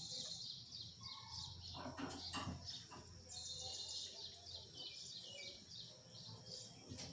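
Birds chirping faintly in the background: a quick run of short, high chirps that gets busier about three seconds in.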